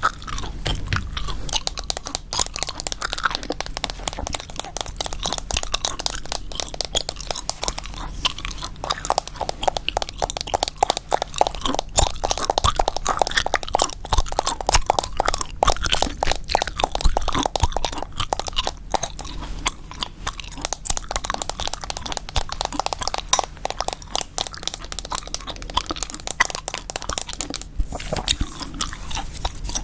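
Chewing gum close to the microphone: a continuous quick run of wet clicks and smacks.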